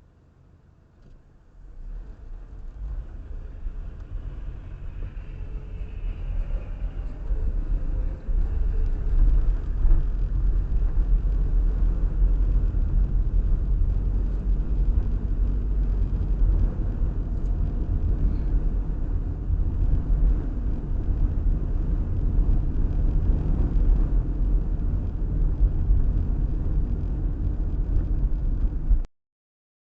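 A low, steady vehicle rumble that builds up over the first several seconds and cuts off suddenly near the end.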